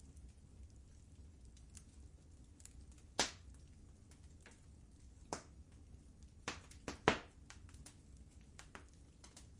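Wood fire crackling in a fireplace: irregular sharp pops and snaps over a low steady rumble, with the loudest pops about three seconds in and about seven seconds in.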